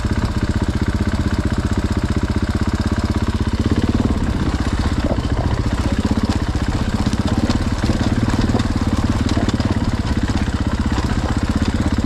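Dirt bike engine running steadily at low revs, with even firing pulses; the note changes slightly about four seconds in.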